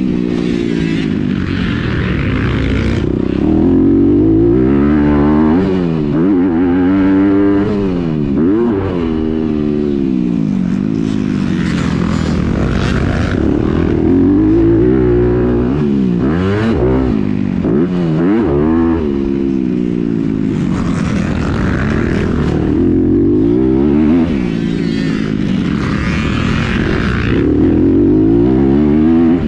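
Honda CRF250R four-stroke single-cylinder motocross engine, fitted with a Yoshimura RS-9T titanium exhaust, racing on a dirt track. The engine note rises as the bike accelerates and drops on each shift or corner, over and over, at full throttle between short lifts.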